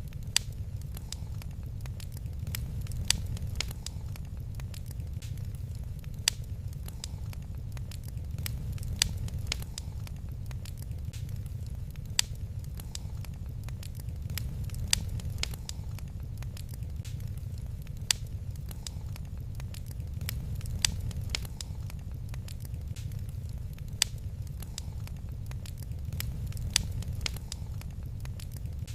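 Wood fire in a fireplace crackling, with many small snaps and a louder sharp pop about every three seconds, over a low steady rumble.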